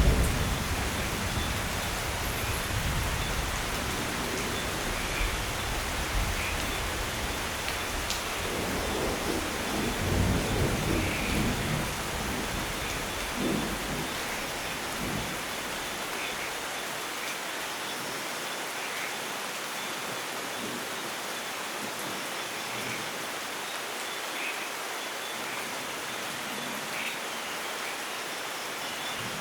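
Steady heavy rain with thunder rumbling. The thunder rolls at the start and again a few times in the first half, then fades out about halfway through, leaving only the even hiss of the rain.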